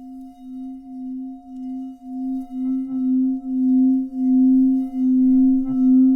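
Singing bowl sounding a steady low hum with higher overtones, wavering in volume about twice a second and swelling steadily louder.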